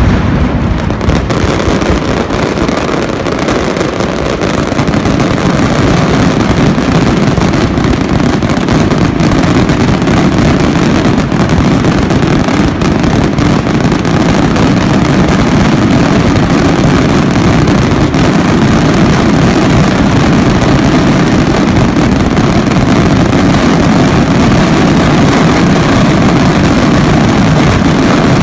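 Mascletà firecrackers in the terremoto phase: ground-level masclets going off so fast that the bangs merge into one continuous loud din with no gaps.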